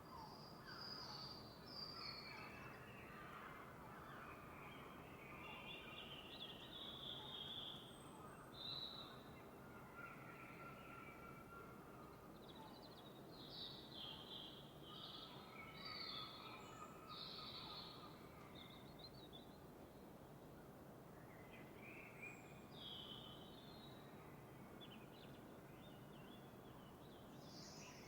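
Faint birds chirping and singing in short, scattered phrases at dawn, over a soft steady background hiss.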